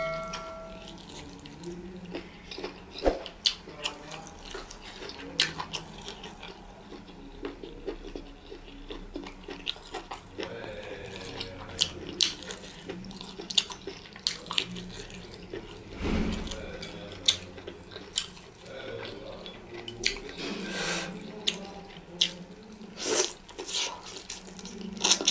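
Close-up mouth sounds of eating soup-soaked meat by hand: biting and chewing, with frequent irregular sharp smacking clicks and wet squelching between them.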